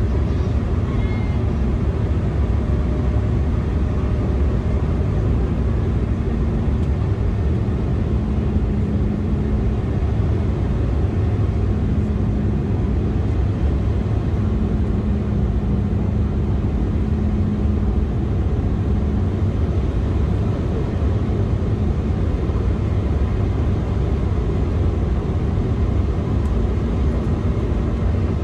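Steady cabin noise of an Embraer E175 airliner in flight: an even low roar of its turbofan engines and the airflow, with a faint hum that comes and goes.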